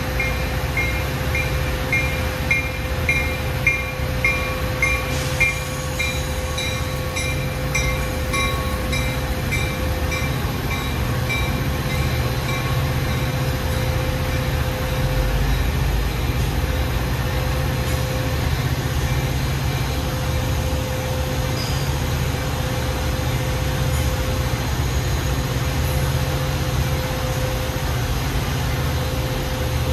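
Metra commuter train running by with a steady low rumble. A bell dings about twice a second through the first dozen seconds, then stops.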